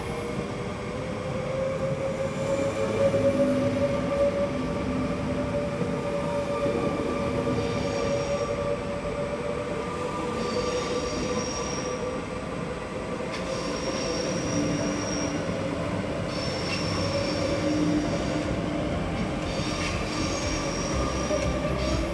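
SBB RABDe 502 Twindexx double-deck electric train rolling slowly along a curved track, wheels squealing on the curve in high tones that come and go over a steady lower whine.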